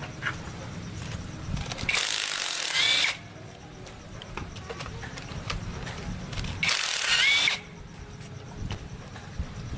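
Workshop tool noise: two roughly one-second bursts of hissing, scraping noise with a short squeal in each, about two seconds in and again near seven seconds, over a low rumble.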